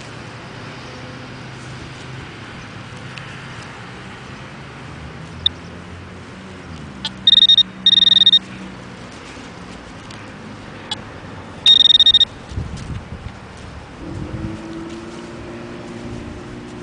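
Garrett Pro-Pointer metal-detecting pinpointer giving a shrill steady alarm tone three times, two short bursts close together about seven seconds in and one about twelve seconds in, as it is passed over a coin hidden in a dug plug of soil.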